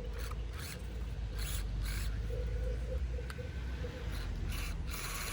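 SCX24 RC crawler stuck on its course, its small electric drive motor whining in short throttle pulses while the tyres scrape and slip against the surface in repeated bursts.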